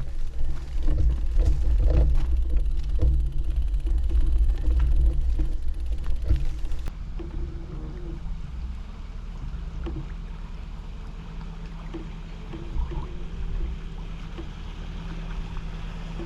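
Brompton folding bicycle rattling and clicking over a bumpy, root-strewn towpath, with wind rumbling on the microphone. About seven seconds in the sound cuts to a quieter, steady low hum.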